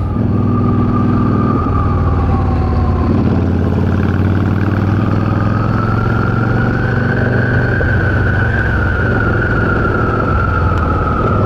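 Yamaha V Star 650 cruiser's V-twin engine running while riding at road speed, with a steady high whistle over it that rises a little in pitch midway.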